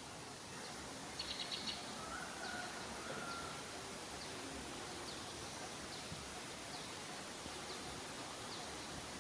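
Quiet outdoor ambience with a steady hiss. A faint, short high chirp repeats about once a second, a quick run of five chirps comes about a second in, and a faint whistle follows around two to three seconds in.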